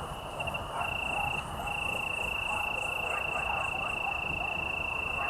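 A cricket trilling in one continuous high note, stuttering and briefly breaking off in the first second and a half, then holding steady. Fainter, higher insect chirping repeats behind it.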